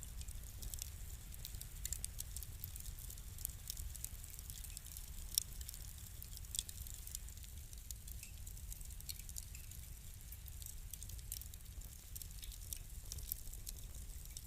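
Fire crackling: irregular small pops and snaps, a couple of them louder about five and six and a half seconds in, over a low steady rumble.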